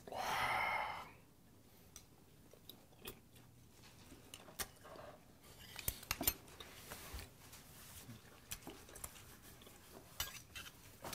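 A brief vocal sound at the start, then a person quietly chewing a piece of raw Korean beef, with faint scattered clicks of chopsticks and tableware.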